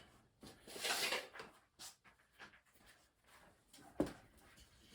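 Brief scuffing of a wooden subfloor panel being shifted about a second in, then a single sharp knock near four seconds in, with a few faint ticks between.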